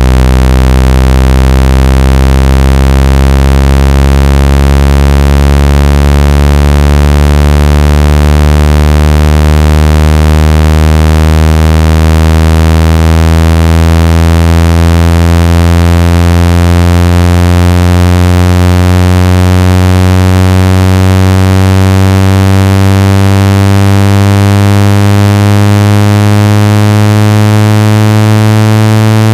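Loud synthetic low buzzing tone, rich in overtones, rising slowly and evenly in pitch. It is a speaker water-ejection tone, meant to shake trapped water out of a phone speaker or earphone.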